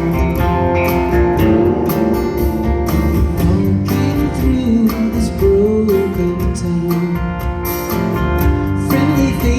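A rock band playing live: strummed acoustic guitar over bass and a steady drum beat, with a sung melody coming in about halfway through.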